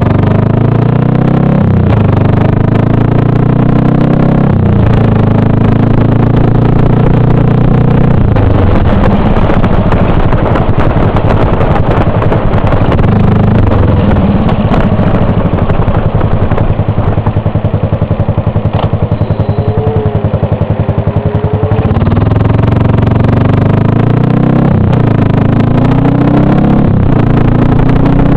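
2002 Buell Blast's single-cylinder 500 cc engine through a large aftermarket exhaust, heard from the rider's helmet under way. The revs climb and drop back several times over the first several seconds, settle into slow low-rpm running through the middle, then climb again near the end.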